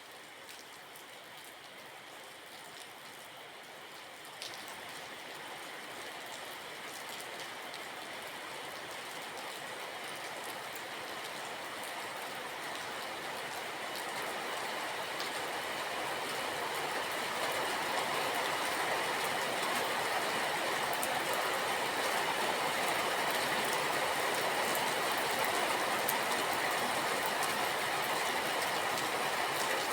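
Steady rain that swells from light to heavy over the first half and then holds, with scattered ticks of drops.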